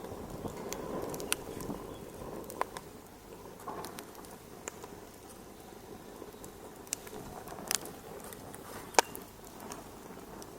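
Fire crackling in a fireplace: a steady hiss with scattered sharp pops, the loudest about nine seconds in.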